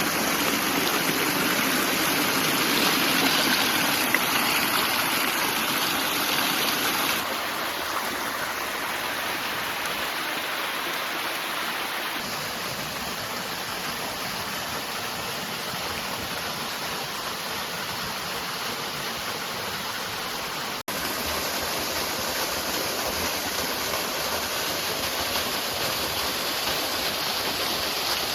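Steady rush of water from a rain-fed waterfall and its stream, noisy and unbroken. It steps down in level about seven seconds in and cuts out for an instant about twenty-one seconds in.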